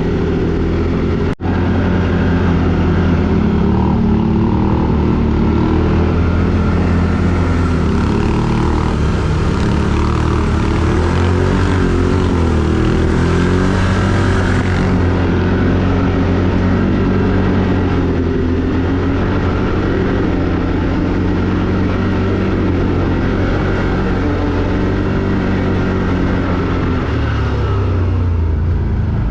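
Quad bike (ATV) engine running continuously, its pitch wavering up and down with the throttle. There is a brief break in the sound about a second in.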